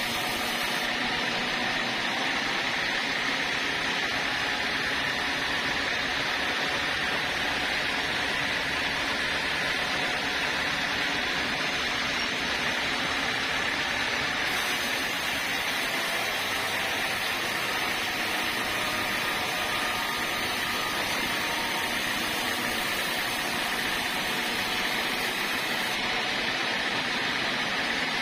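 Sawmill saw machine running steadily: a constant, unchanging mechanical noise with no breaks.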